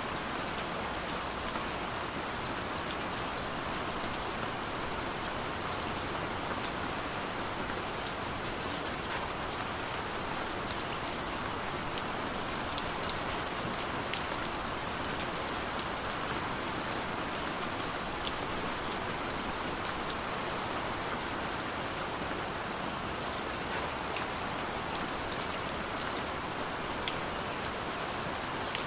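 Heavy rain falling steadily, with many sharp individual drop impacts ticking through it.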